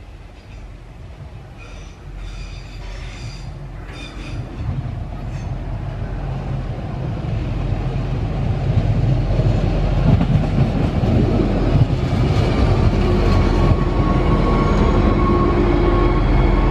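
Stadler GTW 2/6 diesel railcar approaching on the single-track branch line, its engine and wheels growing steadily louder as it pulls in. A steady high tone joins in during the last few seconds.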